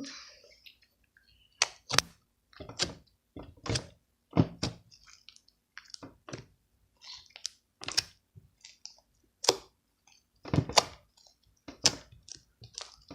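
Homemade clear-glue slime being squeezed and stretched by hand, giving irregular sharp wet clicks and pops, roughly one or two a second.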